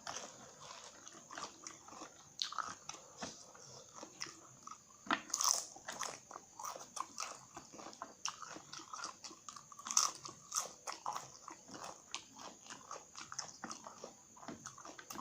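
Cassava chips being bitten and chewed close to the microphone: a fast run of dry crunches, with a couple of louder bites about five and ten seconds in.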